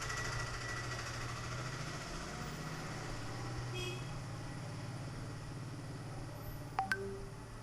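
Steady low background hum, with two sharp clicks close together near the end.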